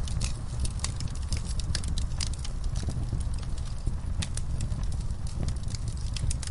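Wood fire burning in a fireplace: a steady low roar of flames with frequent irregular sharp crackles and pops.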